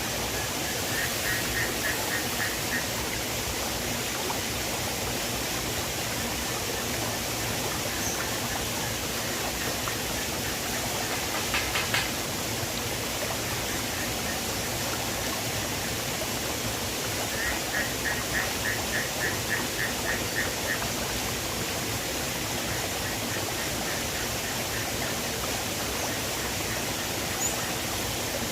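River water rushing steadily. Twice a short run of rapid, high, evenly spaced chirps sounds over it, and there is one sharp click about halfway through.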